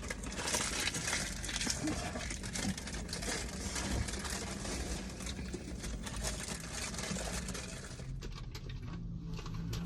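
Background noise: a steady low hum with scattered light clicks and clinks, ending in an abrupt cut.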